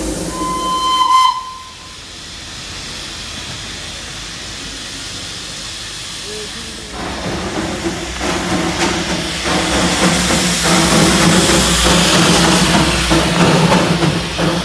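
Darjeeling Himalayan Railway coal-fired steam locomotive: a short blast of its steam whistle, then a steady hiss of escaping steam. About halfway through it turns louder and rougher, with a steady low hum and irregular chuffs, as the locomotive gets under way.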